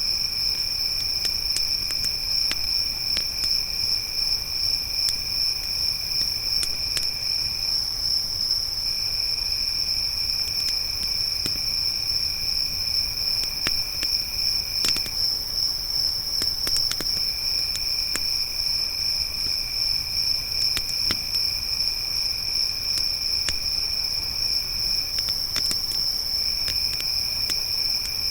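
Crickets trilling in a steady unbroken drone, with a second, lower-pitched cricket that stops briefly a few times, over the scattered pops and crackles of a campfire.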